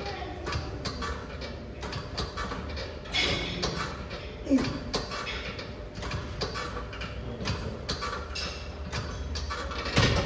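Gym equipment clicking and clanking irregularly throughout, such as weight plates and machine parts being handled, with a louder knock near the end. A brief faint voice can be heard in the background.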